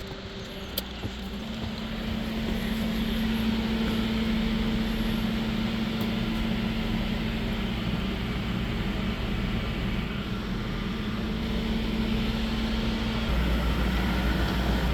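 Car driving at speed, with a steady road and engine rumble and a constant low hum; the low rumble grows louder near the end.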